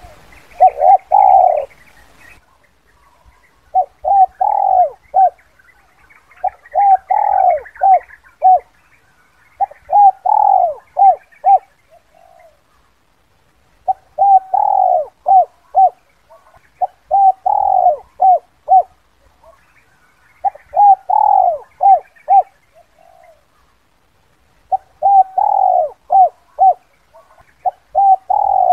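Spotted dove (terkukur) singing its 'kuk 2' song, a phrase of several short coos repeated about every three seconds, eight or nine times.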